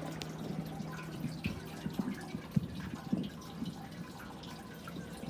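Distant fireworks: faint, scattered small pops and crackles at irregular intervals, with a low steady hum under the first second and a half.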